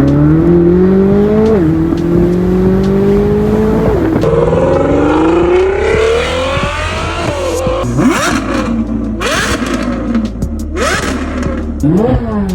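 Vehicle engine accelerating hard, its pitch climbing and dropping sharply at two gear changes, then revving up and down in short blips.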